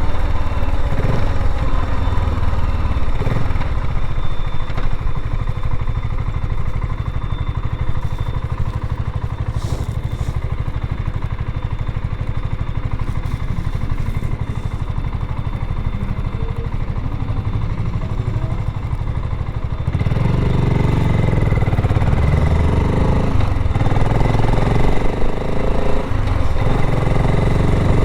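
BSA Gold Star 650 motorcycle engine running on the road. It grows louder about two-thirds of the way through, and its pitch rises and falls over the last several seconds as the revs change.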